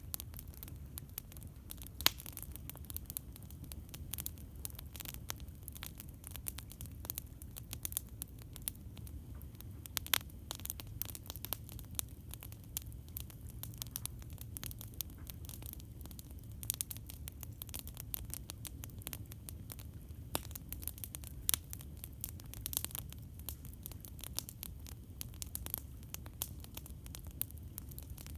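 Campfire crackling: frequent small pops and snaps at irregular intervals, a few louder ones (about two seconds in and about ten seconds in), over a steady low rumble.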